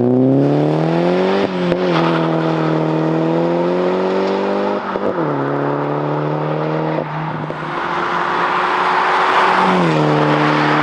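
Engine of a modified 500 bhp Mini John Cooper Works with a full Akrapovic exhaust, pulling under throttle. Its pitch climbs, dips sharply about one and a half and five seconds in, holds fairly steady, then falls away near the end.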